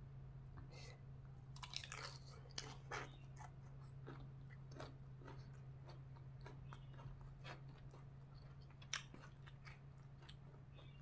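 A person chewing and crunching spicy green papaya salad with raw vegetables close to the microphone: a run of crisp crunches and wet mouth clicks, busiest a couple of seconds in, with another sharp crunch about two seconds before the end. A steady low hum sits underneath.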